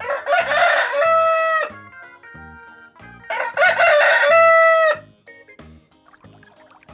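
A rooster crowing twice, each crow ending in a long held note.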